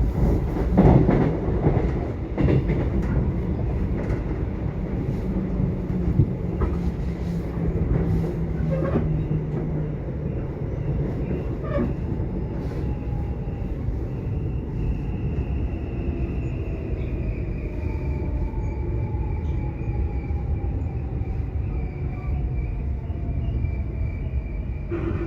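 Subway train running on the rails: a steady low rumble with scattered knocks from the wheels and track, and a faint whine that falls slowly in pitch through the second half.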